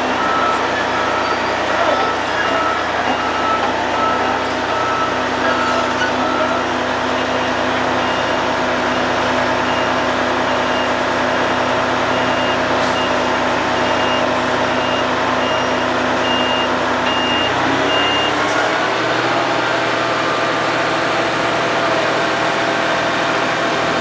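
Road planing machine running, with its engine and milling noise steady and heavy, and reversing alarms beeping over it. About three quarters of the way through, the low rumble drops away and the engine note rises in pitch.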